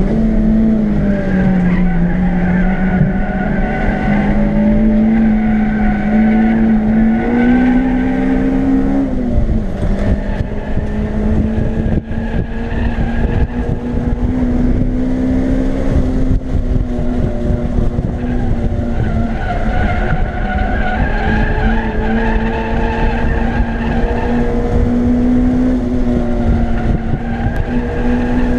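Acura RSX's K20 four-cylinder engine running at high revs on a track lap, heard from inside the cabin. Its note climbs, then drops sharply about nine seconds in. Tyres squeal at times through the corners.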